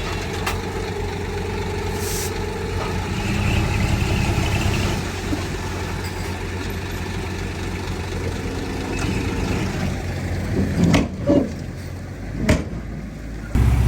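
Heavy diesel engine of earthmoving machinery running steadily, a little louder about three to five seconds in, with a few sharp clanks near the end.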